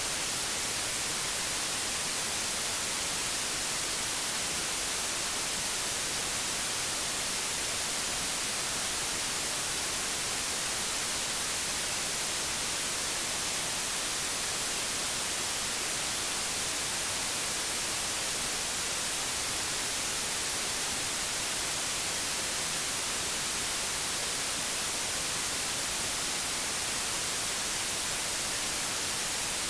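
Old analogue television static: a steady, even hiss strongest in the treble, without breaks or changes.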